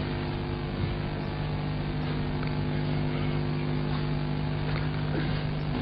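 A steady engine-like drone: an even low hum with several overtones that holds without change.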